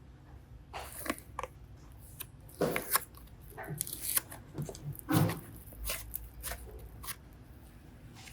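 Irregular sticky crackles, clicks and short squelches of slime or clay being pressed and pulled by hand.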